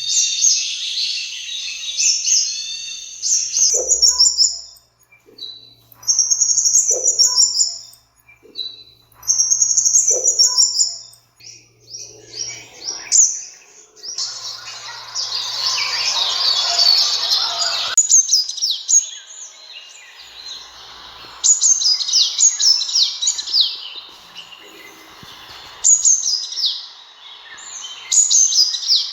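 Sunbird calling: high, thin chirps and fast twittering phrases, repeated again and again, with a denser stretch of overlapping twitter about halfway through.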